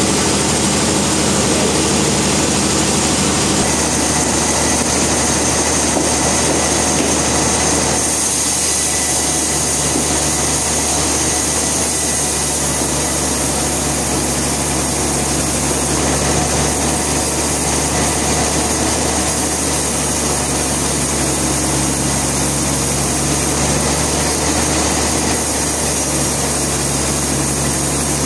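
Sawmill machinery running steadily: an engine or motor hum with a high whine, its sound shifting about four and eight seconds in.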